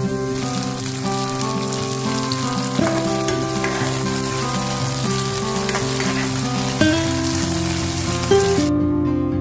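Potato cubes sizzling as they fry in hot oil in a pan; the sizzle cuts off suddenly near the end.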